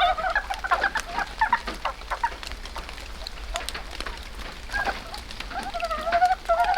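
A bird calling in two bouts of wavering, clucking calls, one at the start and one near the end, over scattered ticks of raindrops.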